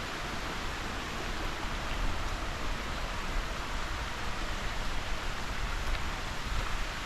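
Steady rushing hiss of water from a waterfall cascade, with an uneven low rumble underneath.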